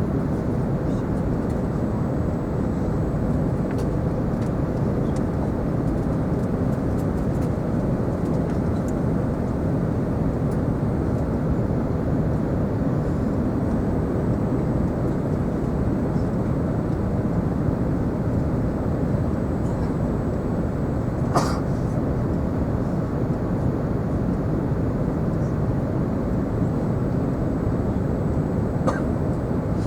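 Steady cabin noise inside an Airbus A380: a constant low rumble of engines and airflow. One sharp click about two-thirds of the way through, and another near the end.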